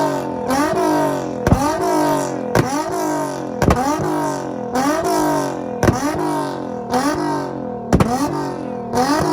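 Nissan Z car's VQ V6 free-revving in repeated quick blips, about one a second, each rising and falling in pitch with a sharp crack at the top.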